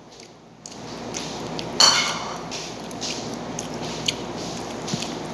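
Close-up chewing and wet mouth noises from eating by hand, with small clicks and one short, louder noisy smack about two seconds in.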